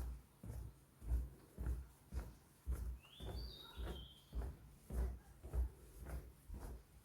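Footsteps walking along a forest path, about two steps a second. A bird calls once near the middle with a short high phrase.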